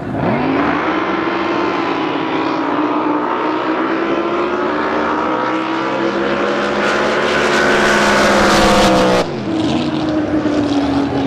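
A drag boat engine running a pass at full throttle, its pitch climbing steadily. About nine seconds in it drops off abruptly, and a quieter engine sound carries on.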